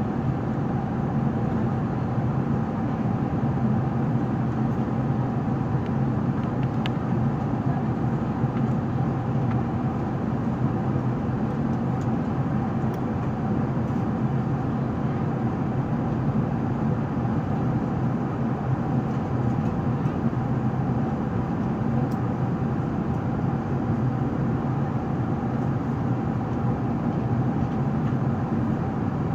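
Steady in-flight cabin noise of an Airbus A380: jet engine and airflow drone with a constant low hum.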